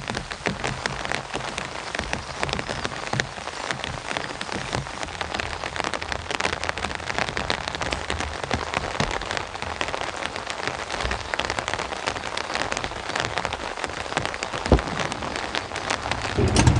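Heavy rain falling, a dense, even patter of drops hitting a surface, with one sharper knock about 15 seconds in.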